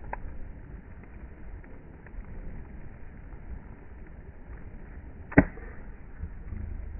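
Beach bonfire burning, with a faint click at the start and one sharp loud pop from the fire about five seconds in, over a steady low rumble.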